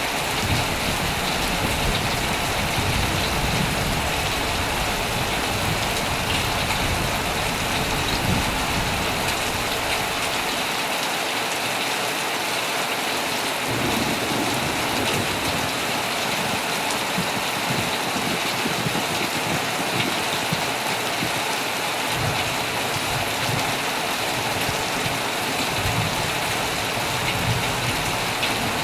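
Heavy rain falling steadily on a tent, with low rumbles of thunder through the first third that fade out and return in the later part.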